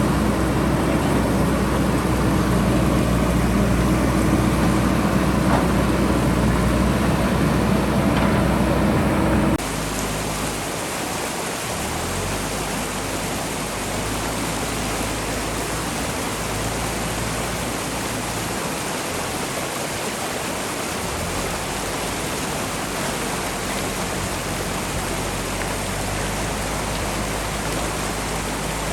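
A backhoe loader's diesel engine running steadily, cut off suddenly about ten seconds in. After the cut the steady rush of a fast-flowing river takes over, with the engine faint underneath.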